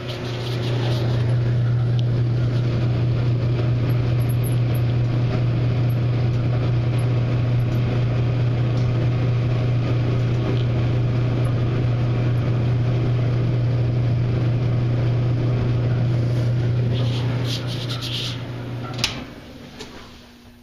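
Maytag electric dryer running, heard from inside the drum: a steady low hum with a squeak that the owner blames on the drum's rear support roller bearings, while another suspects the motor bearing. Near the end there is a sharp click and the running sound dies away.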